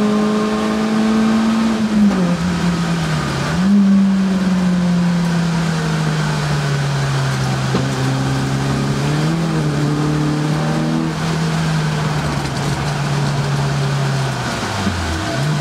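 Peugeot 106 GTI's 1.6-litre 16-valve four-cylinder engine heard from inside the cabin under racing load: held at high revs, dipping briefly about two seconds in and picking up again, then pulling on at slowly falling revs with another short dip near the end. A steady hiss of the wet track runs underneath.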